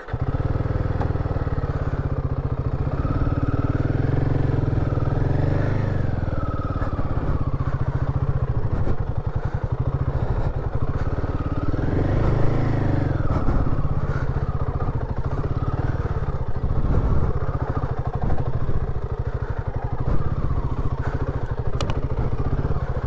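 Royal Enfield Himalayan 450's single-cylinder engine running under load on a muddy off-road track, cutting in suddenly at the start. The revs rise and fall around five seconds in and again around twelve seconds in.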